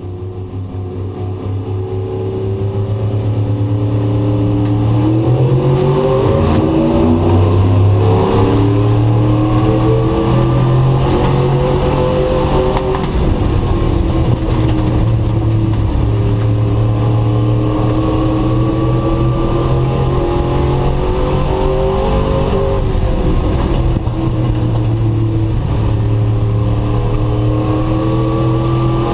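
Race truck engine heard from onboard, building up over the first few seconds and then running hard at speed, its pitch rising and falling again and again as the throttle is worked.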